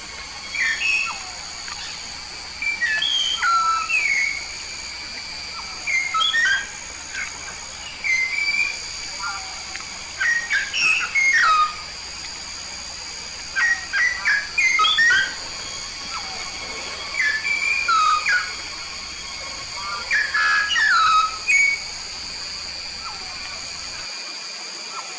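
A myna (jalak) from Papua singing: clusters of short, loud, gliding whistled notes repeated every second or two. A steady high-pitched tone runs underneath.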